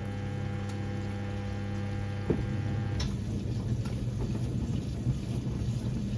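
1978 Siemens WA4600 washing machine during a 30 °C colour wash: the motor hums steadily as it turns the drum, then switches off with a click about two to three seconds in. Water and laundry then slosh and rumble in the drum.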